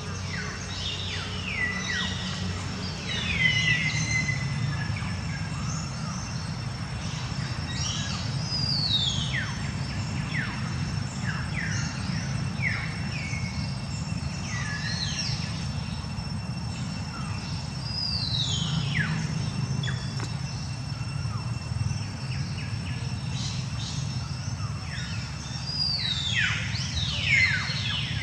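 Birds chirping in clusters every few seconds: short calls that slide down in pitch. They sit over a steady low rumble of outdoor background noise.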